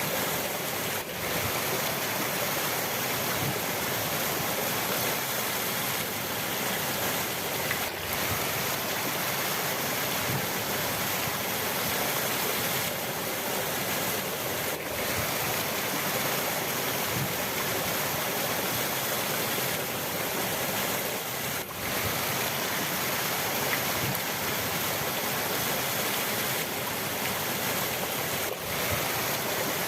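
River water rushing in a steady, even roar, with brief dips about every seven seconds.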